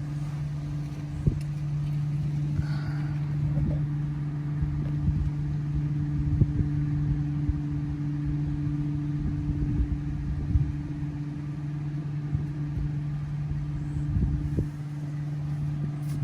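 Dodge Charger Scat Pack's 392 V8 idling, a steady low hum heard from inside the cabin, with a few light knocks.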